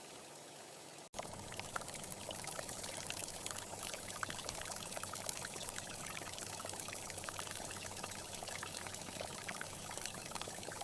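Steady rain falling, heard as an even hiss full of small drop hits. About a second in, a quieter background cuts abruptly to this louder rain.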